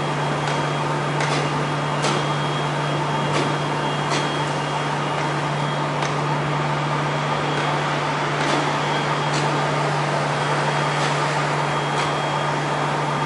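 MTR M-Train running past: a steady low hum and running noise at an even level, with scattered sharp clicks about once a second.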